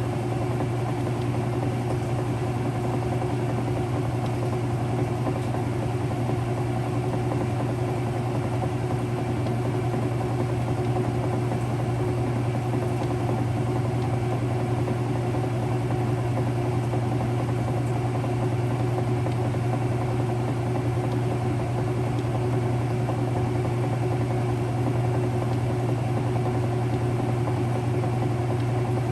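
Whirlpool direct drive washing machine running, its motor giving a steady, unbroken hum.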